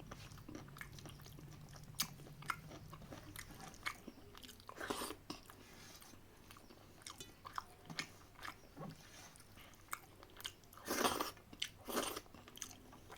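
Close-up chewing and biting of chicken biryani: wet mouth smacks and short crunchy clicks, with a few longer, louder bursts about five seconds in and near the end.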